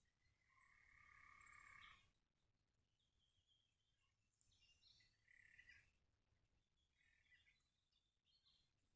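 Very faint animal calls: one longer call in the first two seconds, then scattered short high chirps.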